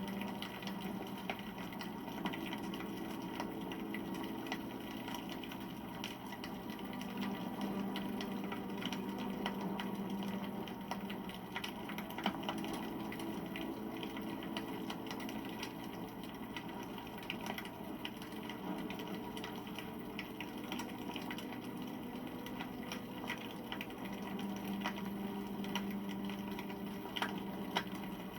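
Campfire crackling, with frequent small irregular pops and snaps over a steady low hum that swells and fades.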